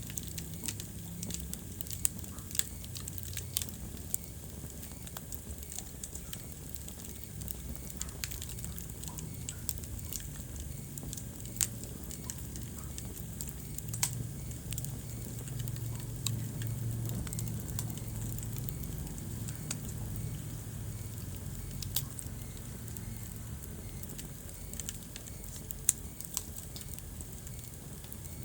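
Wood fire burning in a fireplace: a steady crackle of small snaps, with a few sharper pops standing out, over a low steady rumble.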